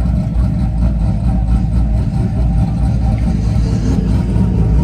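Truck engine running steadily at idle, a continuous low rumble with no revving.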